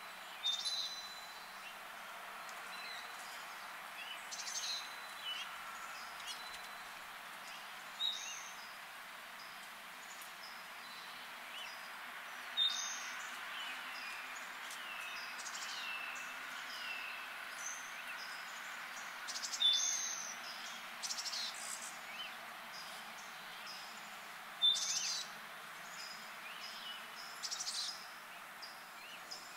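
Wild birds calling in woodland: a loud, sharp, high call about every five seconds, with quieter chirps and a few short down-slurred notes between, over a steady background hiss.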